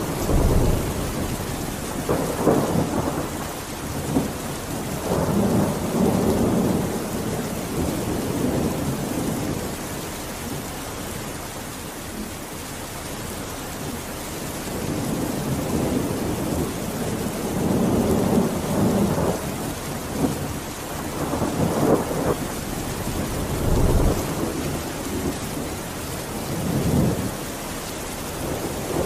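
Steady rain hiss with thunder rumbling several times, each low roll swelling and fading over a second or two.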